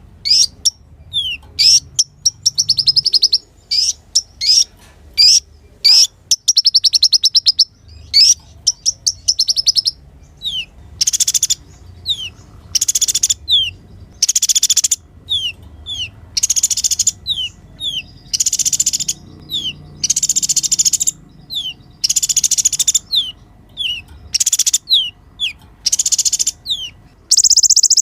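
Kolibri ninja sunbird singing: a run of sharp, high, down-slurred chips mixed with fast, buzzy trills about a second long, repeated over and over.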